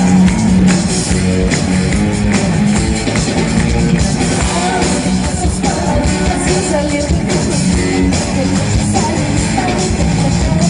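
Live band playing a pop-rock song on stage: drum kit and guitar, with a voice singing at times.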